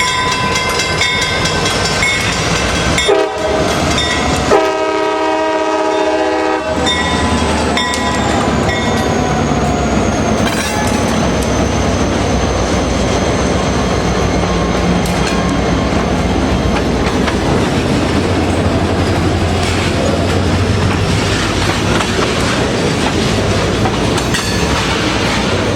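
Train horn sounding in blasts through the first six seconds or so, the last one long and loud, over the steady rumble and wheel clatter of a train rolling by, which goes on after the horn stops.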